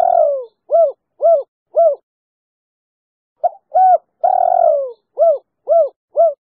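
Female spotted dove cooing its 'kuk 3' song: a short note or two, one long falling coo, then three short arched coos. The phrase ends about two seconds in and comes again after a pause of about a second and a half.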